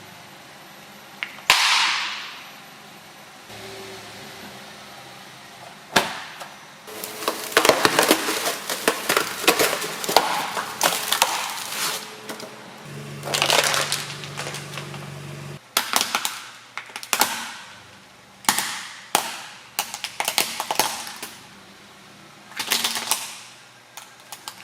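Objects being crushed under a car's tyre: a string of sharp cracks, pops and crunching, with a single loud crack about a second and a half in, a dense crackling run in the middle, and more separate cracks and short bursts near the end.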